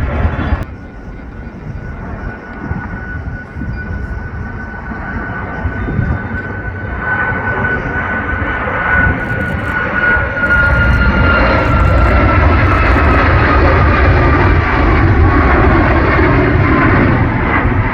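Jet airliner engines growing louder over several seconds, with a thin whine that slowly falls in pitch.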